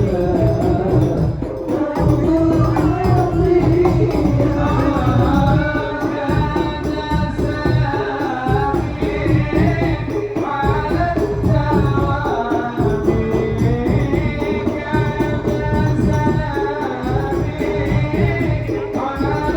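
Sholawat sung in Arabic, a melodic voice over continuous frame-drum (rebana/hadrah) beating.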